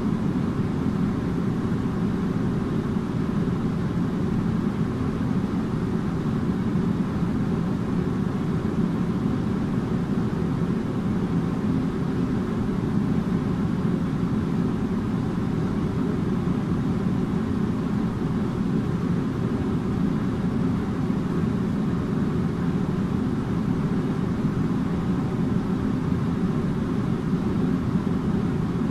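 Air conditioner running steadily: a constant low hum with airflow noise and a faint steady tone above it, unchanging throughout.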